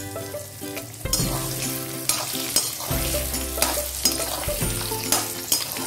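Potato wedges sizzling as they fry in hot oil with cumin seeds in a kadhai, under background music whose chords change about once a second.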